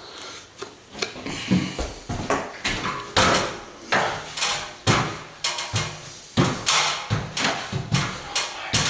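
Repeated scraping and tapping strokes, about one a second, each starting sharply and fading, as stiff cornice cement is worked in around a wall ventilator.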